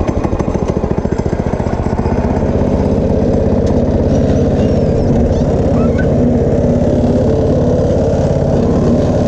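Go-kart's small engine running after a restart, its firing pulses quickening and evening out about two seconds in, then holding steady. The owner thinks the engine is overheating, which is why it keeps dying.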